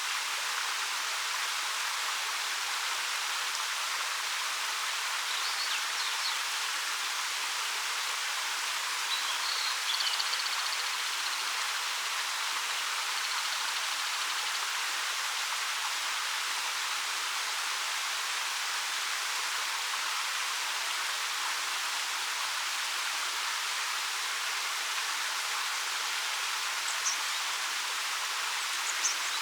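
The 13 m Ariake Falls pouring over rock in a steady, even rush of falling water. A few faint, brief high bird chirps come through a handful of times.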